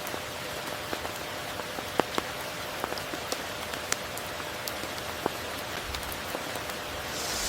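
Steady rain: an even hiss of falling rain with individual nearby drops ticking sharply every second or so, the loudest about two seconds in.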